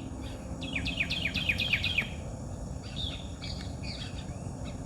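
Songbird singing a quick run of about seven down-slurred notes, followed by scattered chirps from birds, over a faint steady insect hum.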